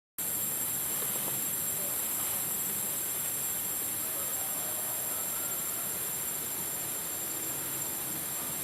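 Steady high-pitched drone of an insect chorus, a constant hiss with a thin whine just below it.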